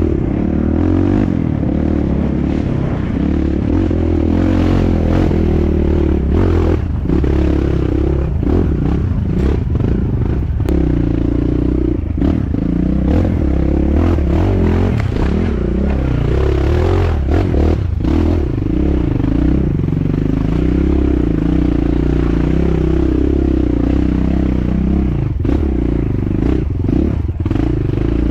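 Dirt bike engine running under varying throttle, its pitch rising and falling, with repeated knocks and clatter from the bike working over rough trail.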